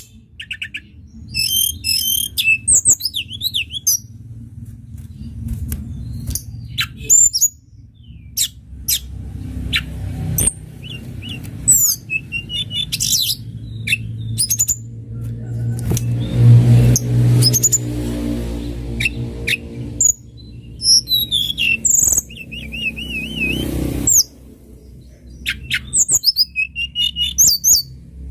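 Tledekan gunung songbird singing: rapid high-pitched chirps, whistles and short trills in repeated phrases. Under it runs a low rumble that swells in the middle.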